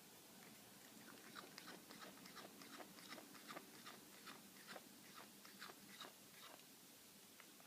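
A cat chewing a piece of steak, making a run of sharp, clicky chewing noises about three or four a second that start about a second in and stop near the end; the uploader finds this chewing noise odd.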